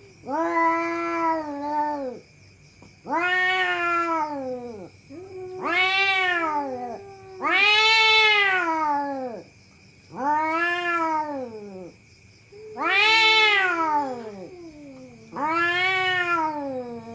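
Cat yowling: about seven long, drawn-out calls, each rising and then falling in pitch, coming one after another about every two and a half seconds.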